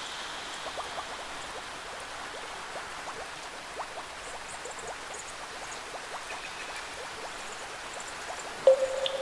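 Steady rainforest rain with scattered drips and drops ticking. A high ringing instrument tone fades out in the first second or so, and near the end a louder instrument note is struck suddenly and rings on.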